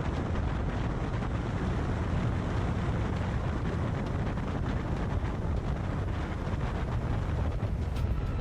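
Steady wind rush and road noise on the microphone of a camera on a moving motorcycle.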